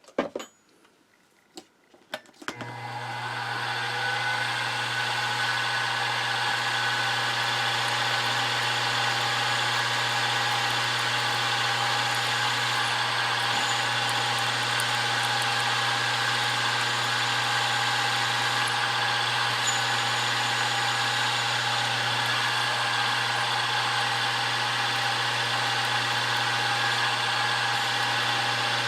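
A few small clicks, then a milling machine's spindle motor is switched on about two and a half seconds in, spins up and runs steadily with a constant hum, turning a number 25 drill that drills a tap-drill hole straight through the part.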